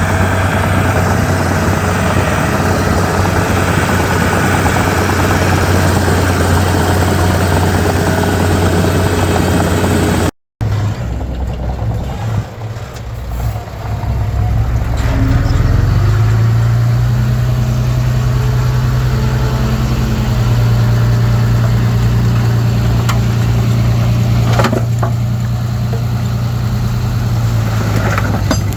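Heavy earthmoving machinery's diesel engine running loudly under work. After a sudden cut about ten seconds in, it runs with a lower, steadier hum that swells a few seconds later. A couple of sharp knocks come near the end.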